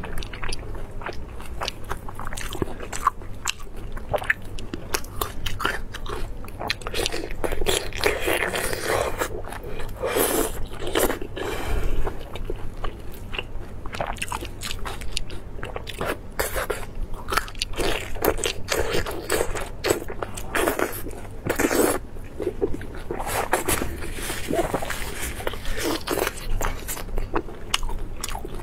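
Close-miked chewing and biting of a glazed lamb sausage (lamb intestine casing stuffed with lamb meat): a dense, irregular run of wet smacks and crisp clicks, with gloved hands pulling the sausage apart.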